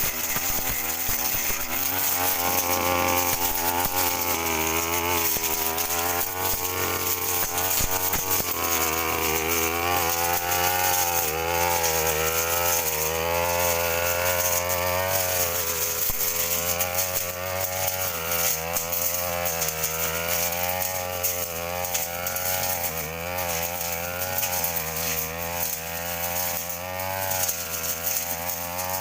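Petrol brush cutter running at high speed, its engine pitch wavering up and down continuously as it cuts through grass.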